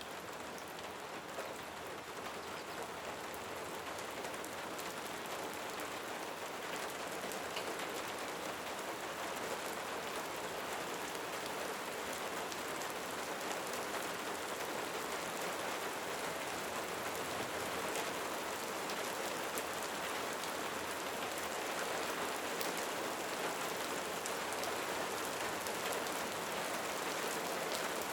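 Steady rain falling, a continuous hiss with many separate drop impacts, growing gradually louder.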